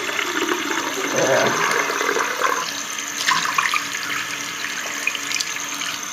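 Cold water running from a bathroom tap, splashing into the sink over a frozen fish being thawed under it.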